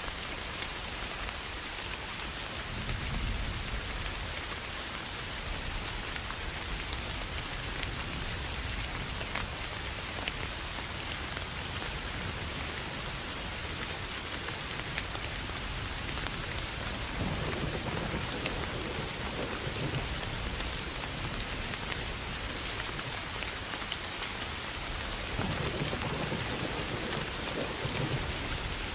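Steady rain falling, with low rolls of thunder: a short one a few seconds in and two longer ones in the second half.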